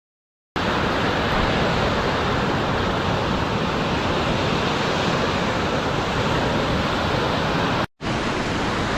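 Steady rush of breaking lake surf and wind across the microphone. It starts abruptly under a second in and cuts out for an instant near the end.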